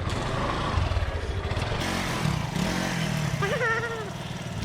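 Motorcycle engine running at low speed in street traffic, with a short wavering higher-pitched sound about three and a half seconds in.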